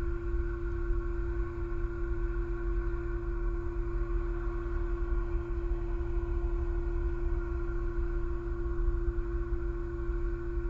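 Steady hum of a few fixed pitches over a low rumble, unchanging throughout: the background noise of an outdoor nest camera's microphone, with no eagle calls.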